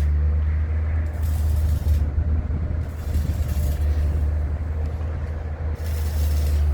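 A steady low engine drone, with short bursts of hiss about a second in and again near the end.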